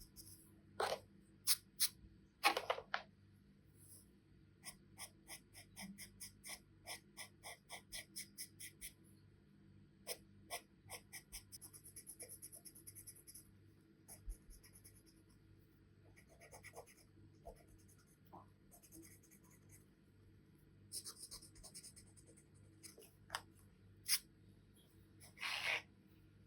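Charcoal pencil scratching on paper in short strokes, with runs of quick hatching at about three or four strokes a second. A few longer, louder strokes come near the start and again near the end.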